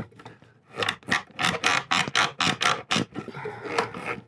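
Loose wooden chair spindles rattling and knocking in their sockets as they are wiggled by hand: a quick run of clicks and knocks, about six a second, starting about a second in with a short pause near the end. The joints' glue has failed, so the spindles move freely.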